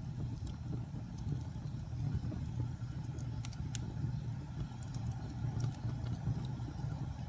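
Fire burning in a fireplace: a steady low rumble of flames with scattered sharp crackles, a few close together about three and a half seconds in.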